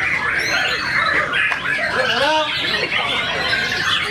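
White-rumped shama (murai batu) singing a dense, rapid run of varied chirps, whistles and pitch glides without a break.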